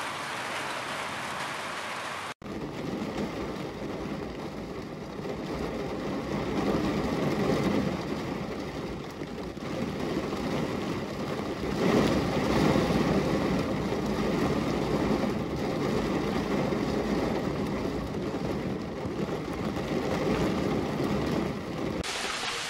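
Rain dripping and splashing from a roof edge, then, after a sudden cut about two seconds in, rain on a car windshield heard from inside the car: a steady patter with a low rumble underneath.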